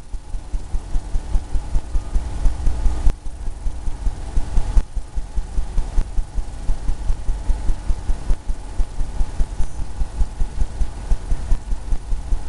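Paintbrush strokes dabbing against a canvas on an easel: a quick run of low thumps, several a second, as feathers are painted in.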